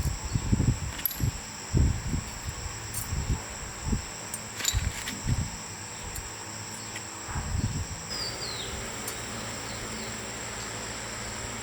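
Steady high buzzing of insects, with irregular low thumps and knocks through the first eight seconds and a short falling chirp about eight seconds in.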